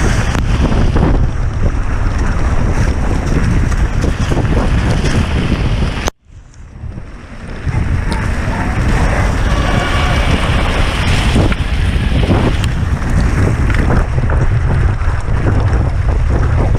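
Wind buffeting the microphone of a camera on a mountain bike descending at speed, with many small rattles and knocks from the rough trail. About six seconds in the sound cuts out almost completely for a moment, then comes back.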